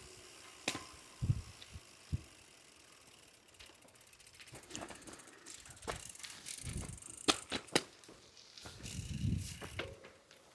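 Bicycle ridden over a rough, bumpy gravel path, rattling and knocking over the bumps. There are several sharp clicks, a run of rapid fine ticks a few seconds in, and low thumps.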